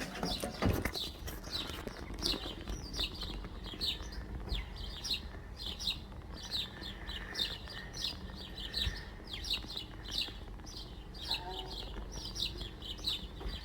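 Small birds chirping: a steady run of short, quick, falling chirps, about two a second, over a low background rumble.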